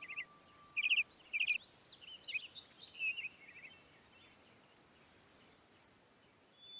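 Small songbirds chirping and twittering in quick high trills over a faint hiss. The calls are busiest in the first three seconds, then thin out, with a few faint chirps near the end.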